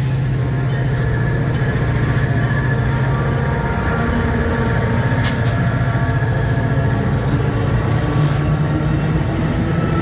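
Train rolling by on the line, a loud steady low rumble throughout.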